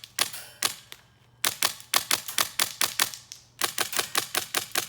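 Airsoft rifle with a Valken V12 HPA engine firing BBs in rapid strings of sharp cracks, about five shots a second, in three bursts separated by short pauses.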